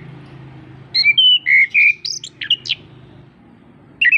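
Chestnut-capped thrush (anis kembang) singing a quick phrase of varied, rapidly changing high notes that starts about a second in and lasts under two seconds. Another phrase begins near the end.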